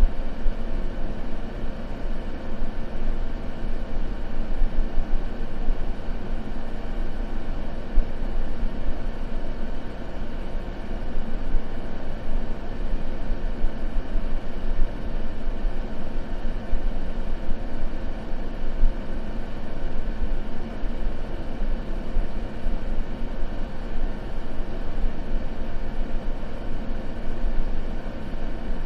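Continuous white-noise sleep track: a steady, even hiss weighted toward the low end, with no crackles or changes.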